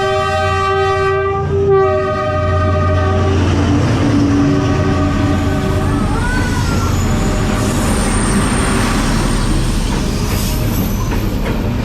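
A train horn sounds in two long blasts over the first three seconds or so. Then the train rolls past with a loud, steady rumble of its wheels and cars.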